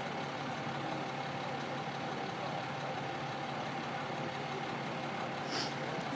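A truck's engine running steadily at idle, with a short hiss about five and a half seconds in.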